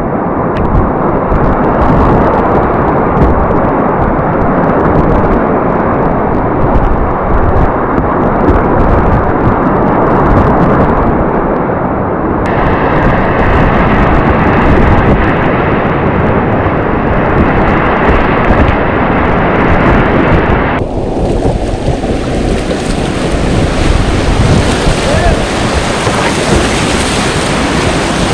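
Class III whitewater rapids rushing loudly, with water and wind buffeting the microphone. The sound of the rush changes abruptly about twelve seconds in and again about twenty-one seconds in.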